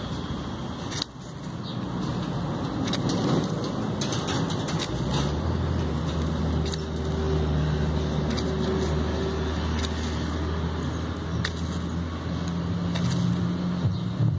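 A knife spine scraping a ferrocerium rod a few times, each a short, sharp scrape, to throw sparks onto a feather stick. From about five seconds in, a motor vehicle's engine runs with a steady low hum that is the loudest sound.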